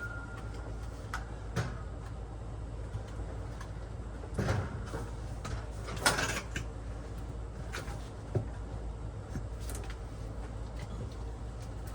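Knocks and scrapes from a heavy heat pump pool heater cabinet being shifted and shimmed level, the loudest about four and a half and six seconds in, over a steady low hum.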